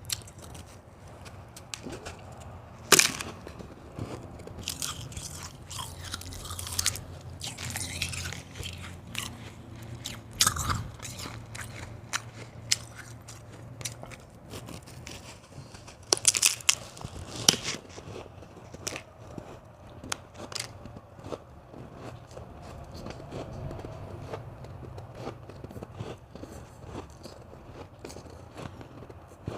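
A person biting and chewing hard white ice close to the microphone: irregular crisp crunches, the loudest about three seconds in and a cluster of sharp cracks around sixteen to eighteen seconds in.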